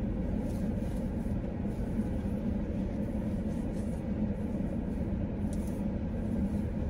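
Steady low rumble inside a parked car's cabin, from the car's engine idling.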